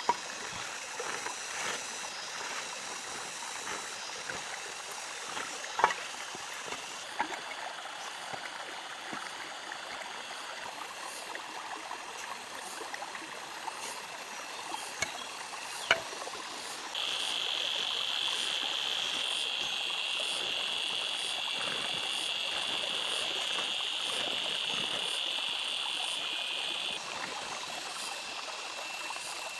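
Steady outdoor ambience of flowing water, broken by a few sharp knocks. A steady high-pitched buzz comes in a little past halfway, lasts about ten seconds, and cuts off.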